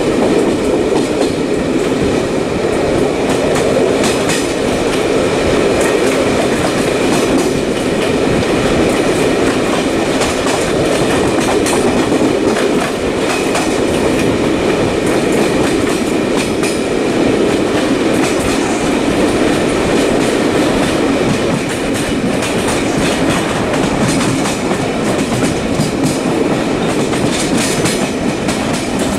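A moving vehicle's steady, loud rumble with scattered sharp clicks.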